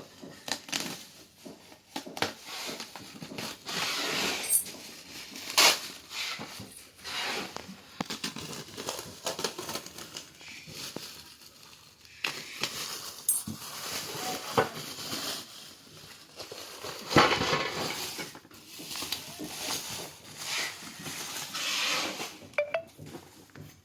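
Packaging being handled during an unboxing: irregular rustling and crinkling of wrapping, with scattered clicks and knocks as the item and box are moved, a sharper knock about 5 seconds in and again around 17 seconds.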